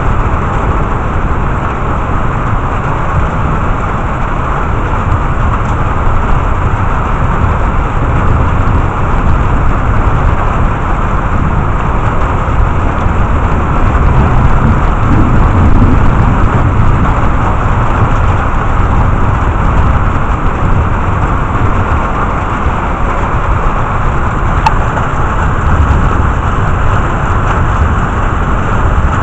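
Thunderstorm rain falling steadily and heavily, with a constant deep rumble underneath.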